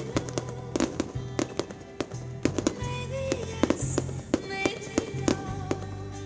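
Fireworks going off in many sharp, irregular bangs and crackles, several a second, over music with held notes.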